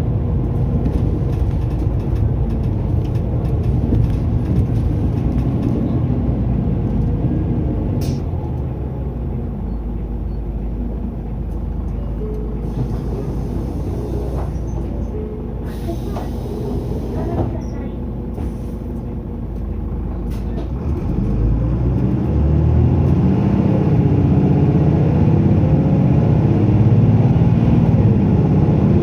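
Mitsubishi Fuso Aero Star (LKG-MP37FKF) city bus on the move, its diesel engine running steadily with a couple of short air hisses from the air brakes around the middle. About two-thirds of the way through, the engine note rises and grows louder as the bus pulls away under hard acceleration.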